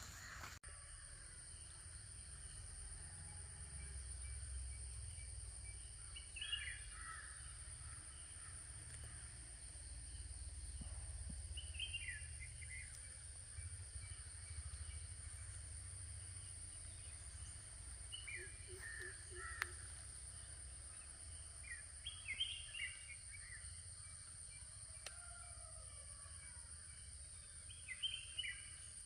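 Outdoor morning ambience: a bird gives short clusters of quick, falling chirps about five times, every five or six seconds. Under the calls are a steady low rumble and a steady high-pitched, insect-like tone.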